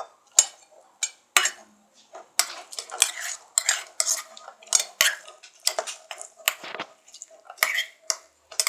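Slime mixture of glue and borax being stirred with a utensil in a container, which scrapes and clinks against the sides in irregular strokes, about one or two a second.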